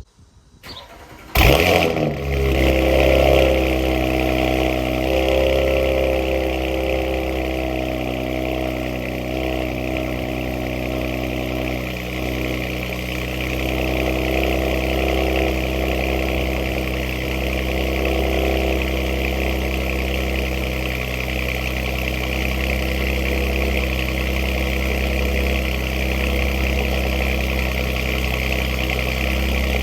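2019 Audi RS5 Sportback's twin-turbo V6 cold-starting about a second and a half in, with a loud flare, then settling into a steady, loud high idle through catless downpipes and a muffled catback exhaust. The engine is still on its cold-start high idle.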